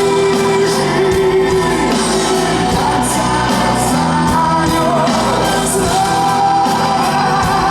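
Live band music with singing: a voice holds long notes over drums and accompaniment.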